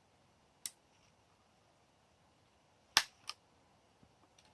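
Sharp clicks from a micro effect pedal's controls being worked: a single click under a second in, then a louder click about three seconds in, followed by a fainter one.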